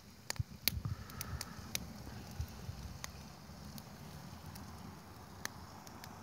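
Wood fire crackling: scattered sharp pops and snaps, several in the first two seconds and fewer after, over a low steady rumble.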